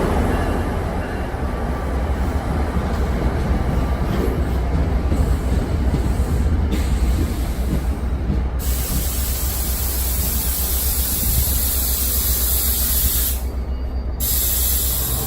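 NJ Transit commuter train at the station platform, a steady low rumble under a hissing, rushing noise.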